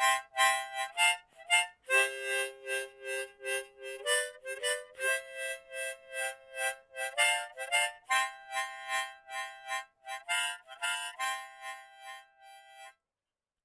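Harmonica playing a quick tune of short repeated notes and chords, cutting off abruptly about a second before the end.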